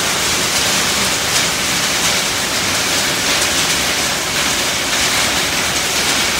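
Heavy rain hitting a tin roof: a dense, steady hiss of countless drops that does not let up.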